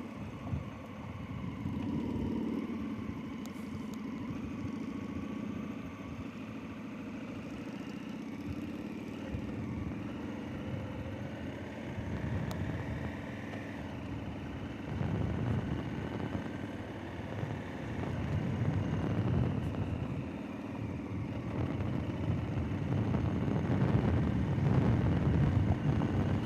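Motorcycle engine running under way on a dirt road, its pitch rising and falling with the throttle, louder over the last several seconds.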